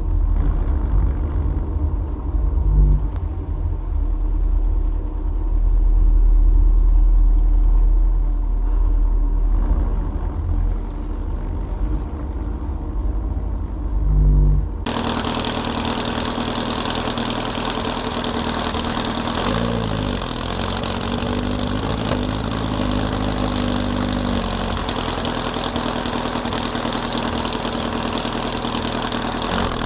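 Air-cooled Volkswagen flat-four engine running, first as a deep, muffled rumble; about halfway through the sound switches abruptly to a brighter, hissier engine noise, with the revs rising and falling a few seconds later.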